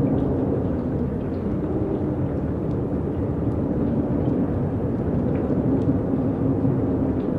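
Strong wind blowing, a steady low rumble with a faint low tone that wavers slightly throughout.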